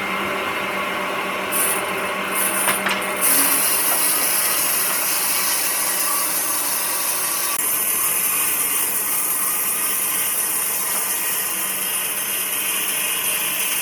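A power tool working wood, running with a steady noisy whir that changes a few times in the first few seconds and shifts in tone about eight seconds in.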